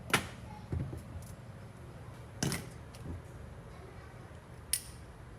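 A handful of short, separate knocks and clicks, the loudest just after the start and halfway through, with a sharp high click near the end, over a steady low hum.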